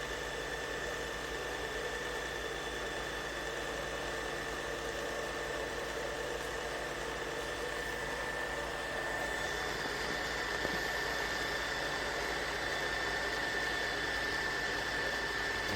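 Tineco iFloor 5 Steam wet-dry floor cleaner running its self-cleaning cycle at the brush-roller cleaning stage: a steady motor hum with a thin whine, getting a little louder about nine seconds in.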